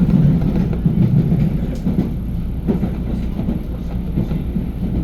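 JR Tokai electric commuter train running, heard on board: a steady low rumble of wheels on rails with a few faint clicks.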